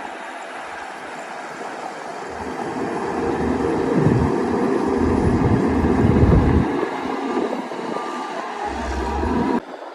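Shantui DH17-C2 bulldozer's diesel engine running as it pushes dirt. It grows louder over a few seconds, is loudest in the middle, then eases off, and cuts off abruptly near the end.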